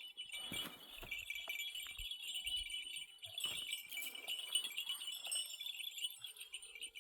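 Many small livestock bells on a flock jingling and tinkling continuously and unevenly as the animals move.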